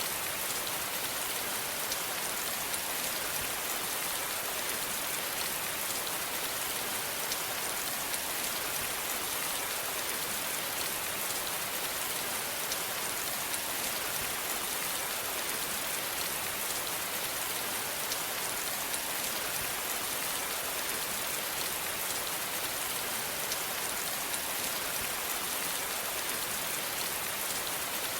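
Steady rain falling on a surface, an even hiss with many fine drop ticks and no change in level.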